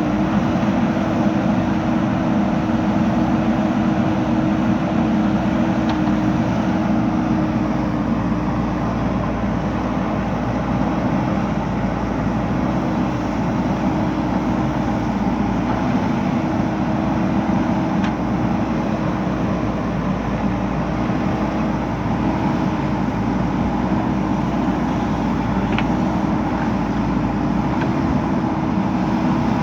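Diesel engine of a JCB 3DX backhoe loader running steadily at an even speed while it works.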